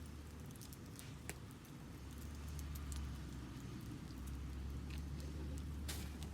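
Wood fire crackling in a fire pit, with scattered sharp pops, the loudest about a second in and near the end, over a steady low rumble.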